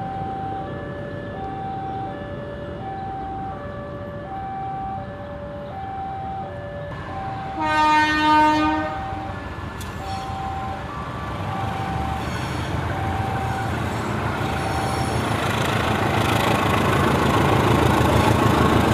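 A railway level-crossing alarm sounding a steady two-tone alternating signal; about 8 s in a train horn blows once for about a second, and from about 11 s the rumble of an approaching train grows steadily louder.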